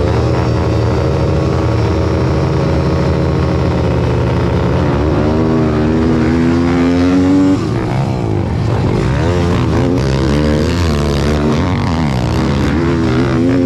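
Pit bike engine revving hard, its pitch climbing steadily, then dropping suddenly about seven and a half seconds in and rising and falling with the throttle after that.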